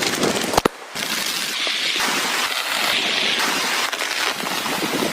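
Heavy rain pouring down, a dense steady hiss, with a couple of sharp cracks and a brief dip under a second in.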